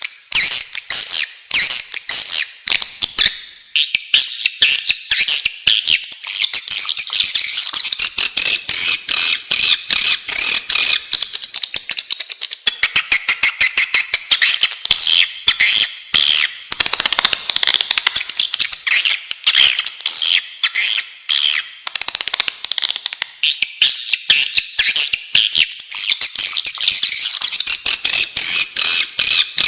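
Swiftlets twittering: a dense, unbroken stream of rapid, high chirps and clicks. It is a swiftlet lure call, the kind played to draw swiftlets into a nesting house.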